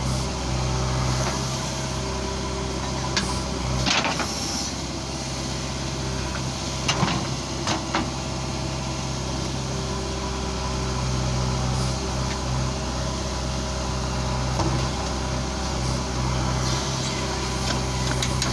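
Heavy diesel machinery engine running steadily, with a few short knocks or scrapes about four seconds in and again around seven to eight seconds in.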